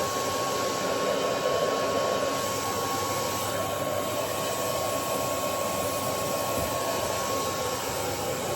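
Electric hair dryer running steadily on high, a constant rush of air with a steady high motor whine.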